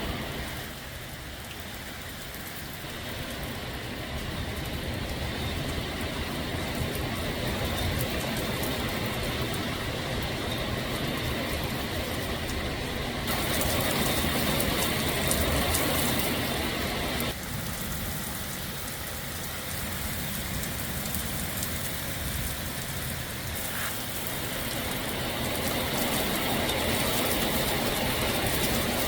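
Torrential rain and gusting wind of a severe thunderstorm: a steady rushing noise that swells about halfway through and again near the end.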